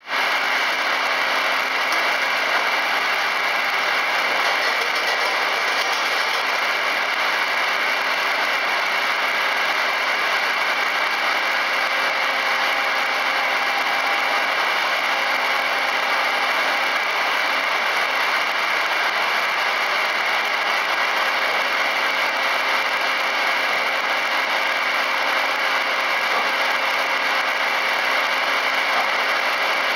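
FKD 500 double-arbor circular saw running, a steady, even machine noise with a few held tones that does not change.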